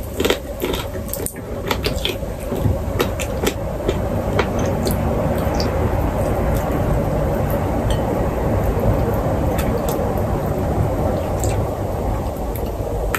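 Eating sounds of someone chewing crispy roast chicken taken by hand, with small clicks, mostly in the first few seconds, over a steady rumbling noise that builds after a couple of seconds and eases near the end.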